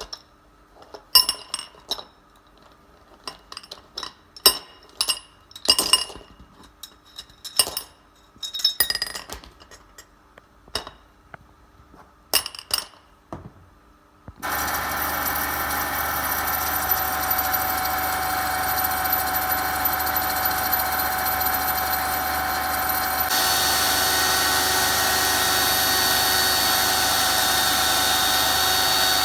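Sharp, scattered metal clinks and taps. About halfway through, a power machine starts abruptly and runs steadily with a whine, its tone shifting slightly about two-thirds of the way in.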